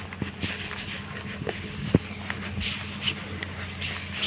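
Vehicle engine running with a steady low hum, with scattered clicks and rattles and one sharp knock about two seconds in.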